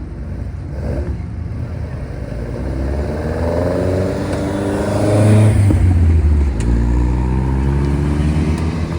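Loud exhaust of a modified classic Japanese car, the engine climbing in revs from about three seconds in and loudest around five to six seconds, then holding a steady pitch before fading near the end.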